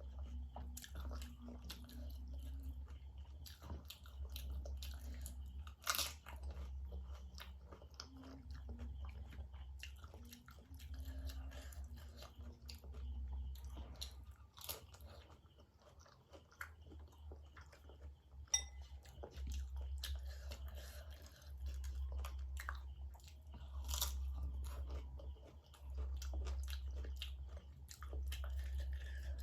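Close-miked crunching and chewing of panipuri (golgappa): crisp puri shells cracking between the teeth and wet chewing, in bouts with short pauses, with a few sharper cracks.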